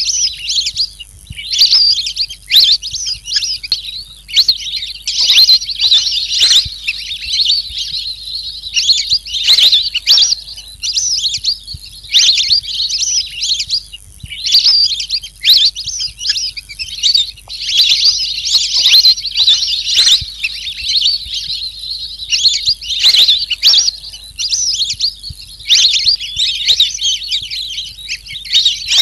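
Recorded calls of the bird sold in Indonesia as a lure sound under the name pikikat alis kuning ('yellow-browed pikikat'): loud, rapid, high chirping in dense bursts every second or two, with short pauses between, over a faint steady hiss.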